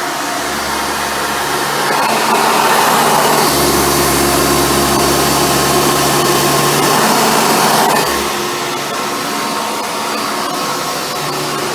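Hoover Futura bagged upright vacuum cleaner running, its motor and single-row brush roll going steadily. It gets louder about two seconds in and drops back a little after eight seconds.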